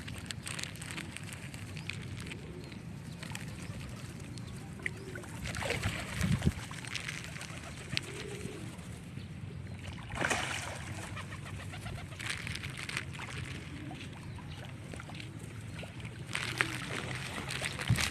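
Birds calling, with short calls now and then over a steady low hum and scattered clicks, and a louder thump about six seconds in.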